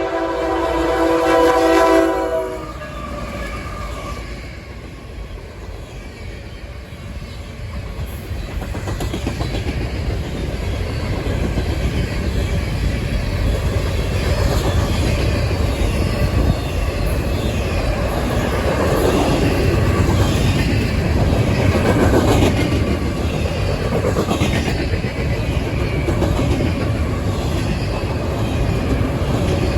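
A diesel freight locomotive's multi-note air horn sounds a chord that cuts off about two and a half seconds in. Then the fast intermodal freight train passes close by: heavy rumbling of wheels on the rail with steady clickety-clack from the cars, growing louder and staying loud.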